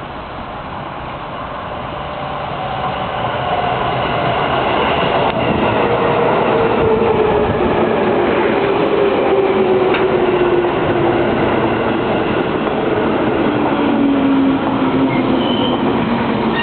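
JR Chuo Line electric commuter train pulling in along a platform: wheel-and-rail rumble that grows louder over the first few seconds as the train arrives. Over it a whine falls steadily in pitch as the train slows, and a brief high squeal comes near the end.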